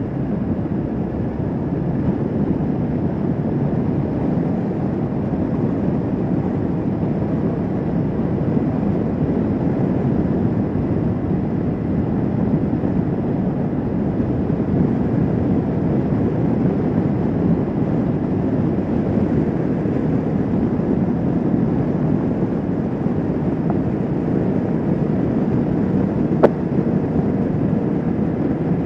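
Kawasaki Vulcan S 650 parallel-twin engine running steadily at cruising speed, blended with wind rush on the microphone. A single sharp click comes near the end.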